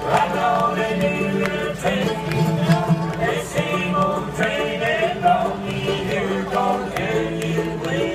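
Live bluegrass band with mandolins and acoustic guitar playing a brisk tune, with men singing over it.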